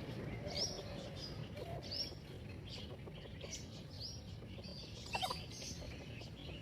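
Chicks peeping: short high-pitched chirps repeating about once or twice a second, with a louder double call about five seconds in.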